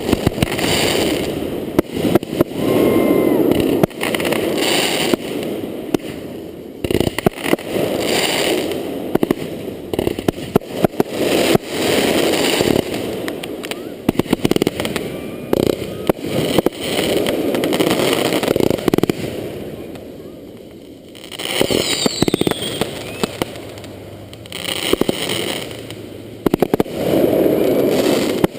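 Fireworks going off in quick succession: many sharp bangs over dense crackling, easing briefly about twenty seconds in before picking up again.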